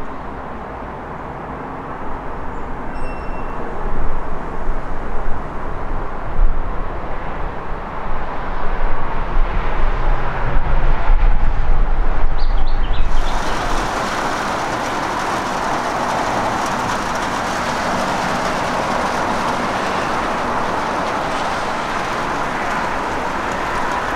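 A V/Line Sprinter diesel railcar set running along the track, a low uneven rumble that swells in loudness. About thirteen seconds in it gives way abruptly to a steady hiss of rain.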